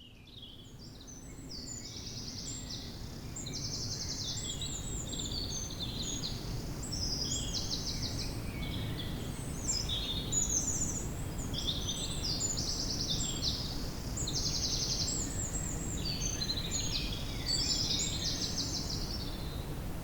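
Woodland ambience: several songbirds singing and calling over each other, with quick trills of rapidly repeated notes, above a steady low background rumble. The sound fades in over the first few seconds.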